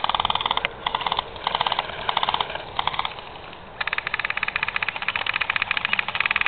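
Airsoft guns firing on full auto, a fast rattle of rapid shots: several short bursts, then a pause, then one long sustained burst from a little under four seconds in.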